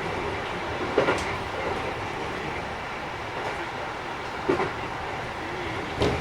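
Keikyu 1000 series electric train running, heard from inside the car: a steady rumble of wheels and running gear with three sharp wheel knocks over rail joints, about a second in, midway and near the end. This Mitsubishi IGBT-equipped set is a little noisier than other sets.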